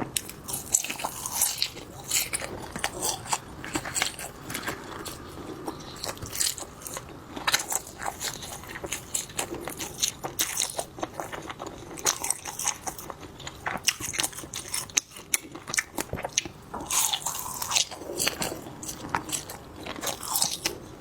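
Close-miked eating of spicy skewers: biting and chewing, a dense, irregular run of crunches and small clicks.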